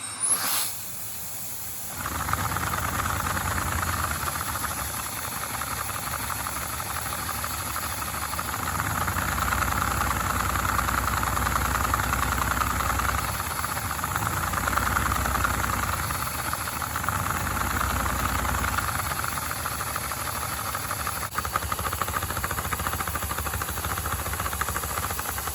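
Lego inline two-cylinder vacuum engine running steadily, a constant hiss of air with a fast, even mechanical rattle. It starts about two seconds in, and after a short break near the end it runs on without its flywheel.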